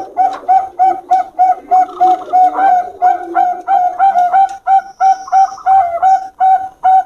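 Zebra doves (Bangkok perkutut) cooing in a fast, even run of short notes, about three or four a second.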